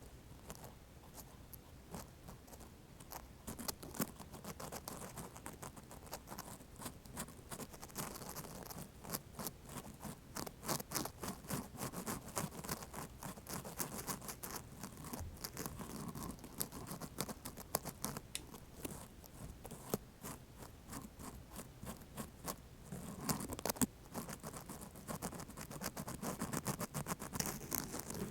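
Cotton swabs worked in quick, crisp scratching strokes, sparse at first and denser from about four seconds in.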